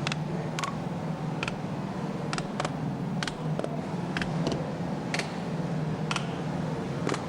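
Scattered light clicks and taps, irregular and about two a second, over a steady low hum.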